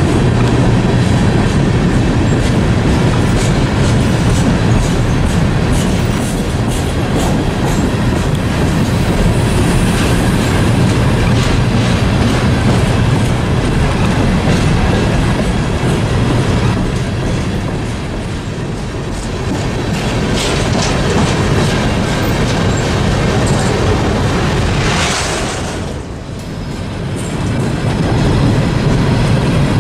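Freight train of hopper cars rolling past: a steady rumble with the steel wheels clattering rhythmically over the rail joints. Near the end a brief, harsher burst of noise lasting about a second.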